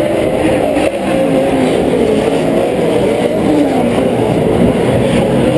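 Several Pro 4 off-road race trucks' V8 engines running hard together, loud and steady, their pitches rising and falling over one another as the drivers get on and off the throttle.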